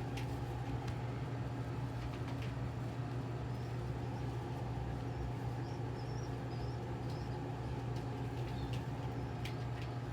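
A steady low mechanical hum, with a few faint high chirps near the middle and some light clicks.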